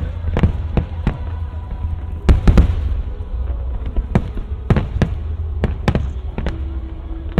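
Aerial fireworks bursting in a display: a dozen or so sharp bangs at uneven intervals, the loudest cluster a little over two seconds in, over a steady low rumble.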